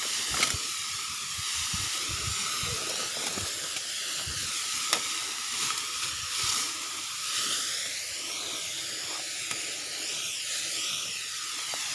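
Mini engine-driven grass sprayer spraying, a steady high hiss from the nozzle under pressure. A faint steady whine runs under it, with a few light clicks.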